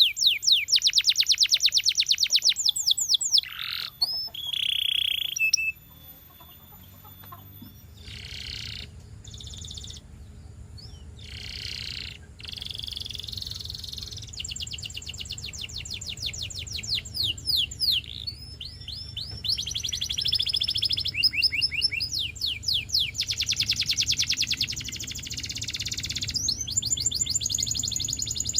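Canary singing in fast trills of rapidly repeated high notes, broken by short glides and a quieter gap about six seconds in, over a low background hum.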